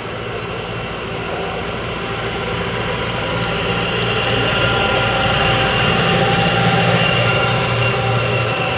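Kubota M135GX-IV tractor's 6.1-litre four-cylinder diesel engine running steadily at low revs, growing gradually louder.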